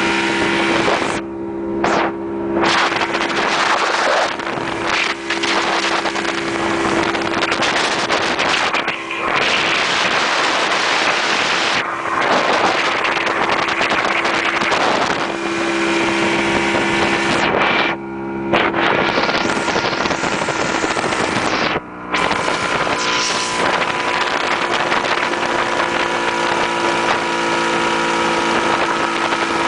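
Motorboat engine running steadily under way, a constant drone with water rushing past the hull and wind buffeting the microphone; the rush of noise drops out briefly a few times.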